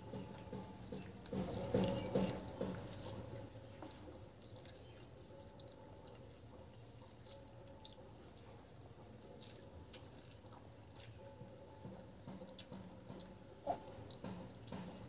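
Close-up wet eating sounds from a person eating rice and cauliflower bhujia by hand: mouth clicks, lip smacks and soft chewing, loudest around two seconds in, then quieter with scattered small wet clicks.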